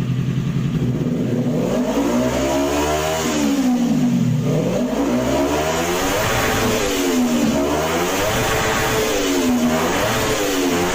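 Vehicle engine revved up and down several times through an aftermarket racing exhaust, its pitch climbing and falling in repeated swells after a short idle.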